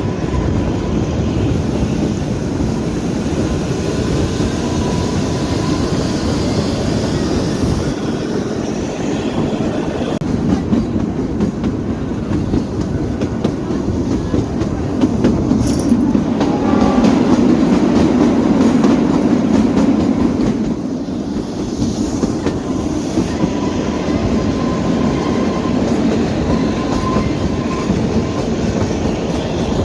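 Narrow-gauge Kalka–Shimla toy train carriage running along the track, its wheels clattering steadily over the rails, louder for a few seconds about halfway through, with a faint thin wheel squeal now and then.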